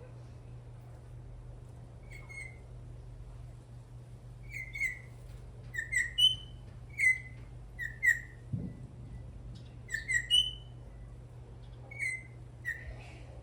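Venezuelan troupial calling: short whistled notes, often in pairs, repeated about once a second over a steady low hum.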